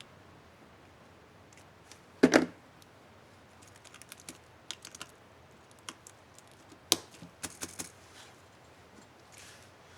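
Plastic clicks and snaps from an HP DV4 laptop keyboard's key caps being worked by hand. A loud double snap comes about two seconds in, followed by scattered light key clicks and another sharp click with a quick run of clicks a little after the middle.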